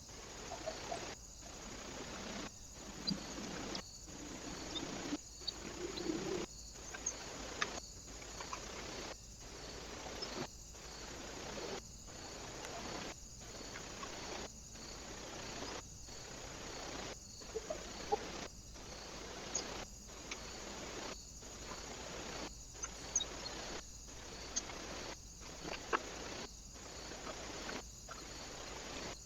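Small birds at a feeder heard through a trail camera: faint short chirps and scattered sharp clicks over steady outdoor hiss, the sound breaking off briefly about once a second.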